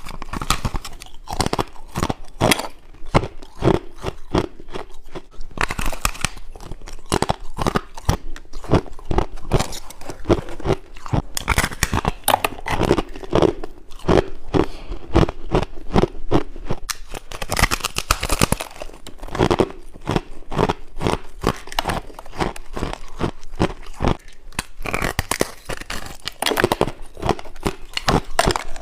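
Close-up chewing and crunching of frost and ice, a dense run of sharp crunches in quick succession.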